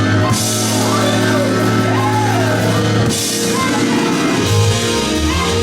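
Live gospel music: a voice singing over a band with drums and bass, with cymbal crashes about a third of a second in and again about three seconds in.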